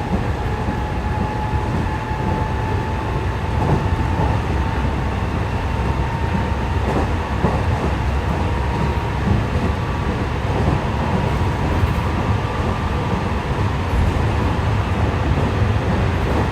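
JR West 207 series electric train running, with a thin inverter motor whine that climbs slowly in pitch over a steady wheel-and-rail rumble and a few rail-joint knocks. The car is known for an odd inverter sound, because its two inverter units sound out of step with each other.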